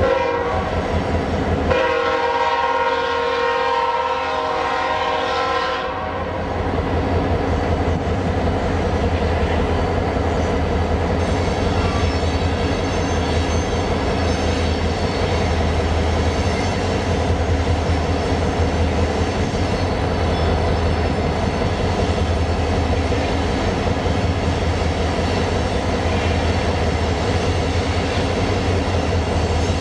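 Freight train cars rolling past: a steady rumble and clatter of steel wheels on rail. A locomotive air horn blows once for about four seconds near the start.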